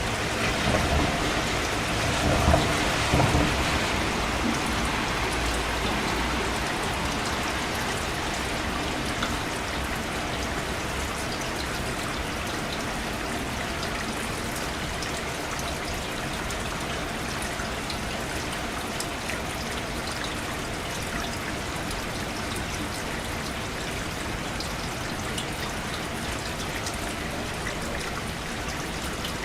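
Steady rain falling, an even hiss of drops. It is louder for the first few seconds, with a low rumble under it, then settles to a constant level.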